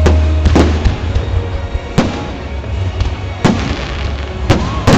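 Fireworks shells bursting overhead: about six sharp bangs at uneven intervals, two close together just after the start and two more near the end, over a constant low rumble.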